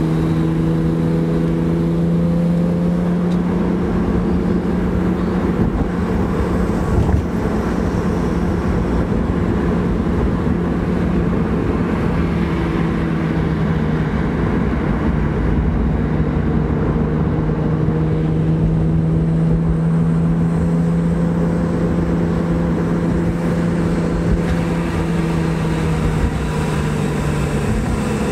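BMW E36 M3's straight-six engine pulling at a steady pitch while the car cruises, with road and tyre rumble, heard from inside the cabin.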